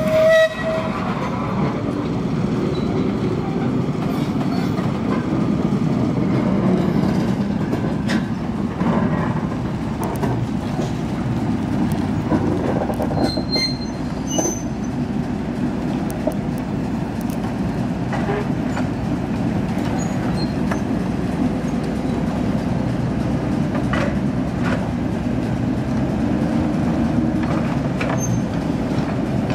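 A locomotive rolling slowly on rails: a steady low rumble with occasional clanks and light wheel squeal. A short high tone sounds right at the start.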